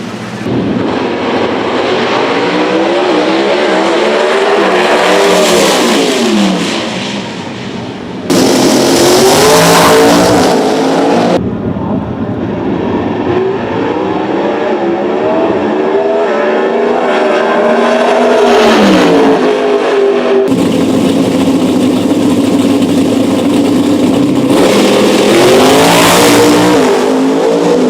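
Drag racing cars running at full throttle, their engine notes climbing and then falling away as they pass. The sound changes abruptly between several short clips.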